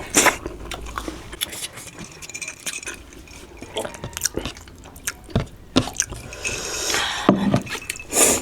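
Close-up chewing and wet mouth smacks of someone eating soft food, with scattered sharp clicks at irregular intervals.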